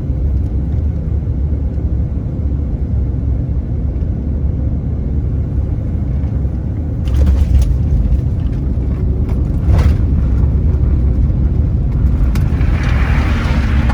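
Airliner cabin noise during landing: a steady low rumble that grows louder about seven seconds in, with sharp knocks around then and again about ten seconds in, and a rushing roar building near the end.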